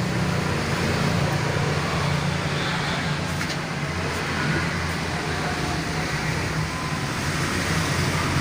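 Suzuki Jimny engine running steadily through its newly fitted full custom exhaust system, a low, even drone with no revving.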